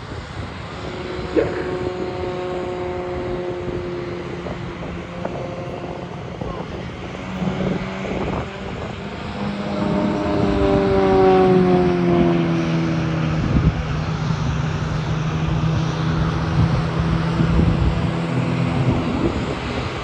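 Piston-engined aerobatic display aircraft flying overhead, the engine and propeller note shifting in pitch as they manoeuvre, with a falling glide about halfway through.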